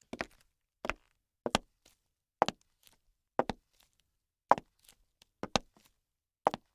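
A series of sharp knocks or thuds, about one a second, each often followed by a fainter second tap.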